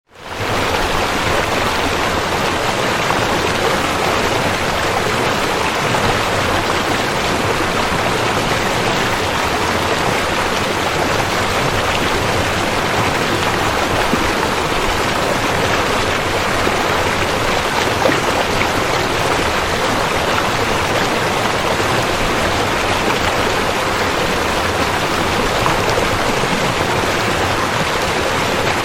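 River water flowing in a steady, even rush, fading up from silence at the very start.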